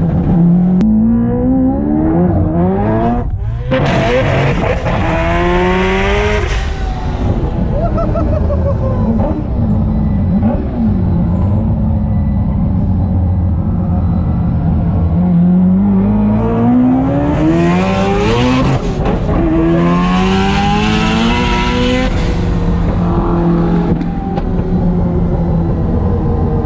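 Mazda 26B four-rotor rotary engine in an RX7 race car pulling hard, heard from inside the car. Its pitch climbs through a gear change in each of two full-throttle runs, with a long stretch of falling revs in between.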